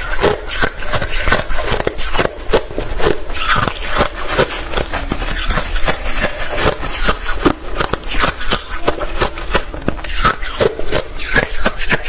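Close-up crunching of hard refrozen crushed ice being chewed: a continuous run of sharp, irregular crunches, several a second.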